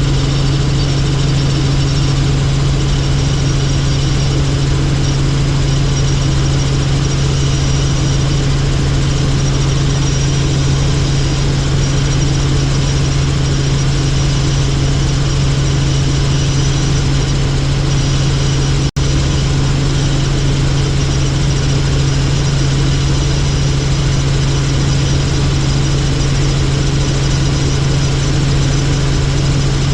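Helicopter in flight: a steady, loud rotor and engine drone with a strong low hum. It cuts out for an instant about two-thirds of the way through, then resumes unchanged.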